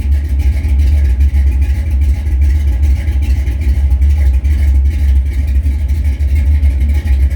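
Old Chevrolet truck engine running steadily while still warm-up cold after a cold start, a loud, even low note with fast regular exhaust pulses.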